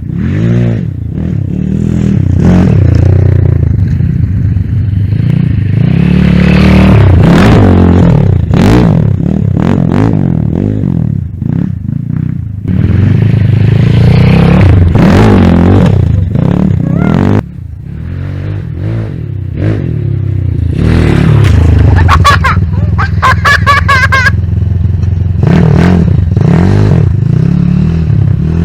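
Kayo TT140 dirt bike's 140 cc single-cylinder four-stroke engine being ridden hard, its pitch rising and falling again and again as the throttle is worked, with knocks from the bike over the ground. The engine drops off sharply once, about two thirds of the way in, before picking up again.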